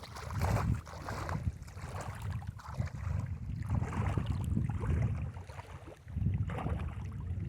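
River water sloshing and splashing in uneven surges as a person moves through it, with wind buffeting the microphone.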